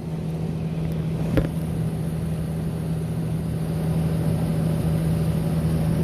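Refrigeration unit running inside its enclosure, heard through a vent: a steady mechanical hum with a low drone, growing slightly louder. There is a single click about a second and a half in.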